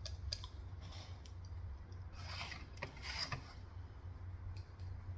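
Close-up eating sounds of Korean fried chicken being chewed: scattered soft clicks and crunches, with two louder crunching bursts around two and three seconds in.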